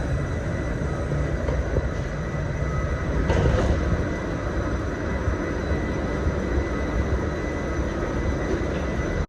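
Jet aircraft noise at the airport: a steady low rumble with a faint high whine, a brief hiss about three seconds in, cutting off suddenly at the end.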